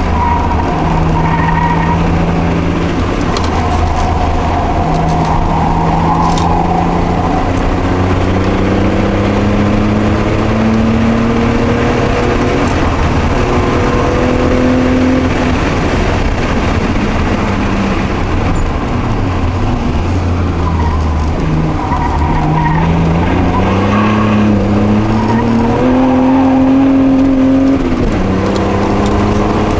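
Toyota Supra Mk2's 5M-E straight-six heard from inside the cabin at track speed. The revs climb and drop back with each gear change, and about two-thirds through the note dips sharply before climbing again.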